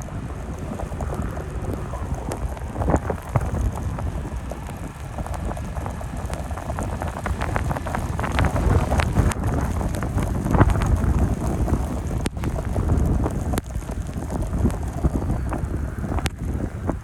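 Wind buffeting the microphone in a snowstorm: a steady low rumble with irregular fluttering gusts, strongest in the middle.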